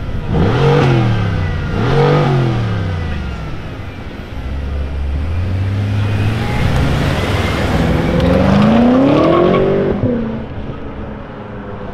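Modified BMW M5 F10's twin-turbo V8 revved twice in quick blips at a standstill, then pulling away. The engine note then climbs steadily under hard acceleration for about two seconds and drops away when the driver lifts off, near the end.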